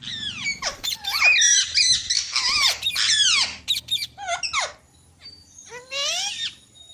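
Pet green parrots screeching: a fast run of harsh squawks, each falling in pitch, for about four and a half seconds, then a short burst of calls near the end. They are angry calls from an agitated parrot.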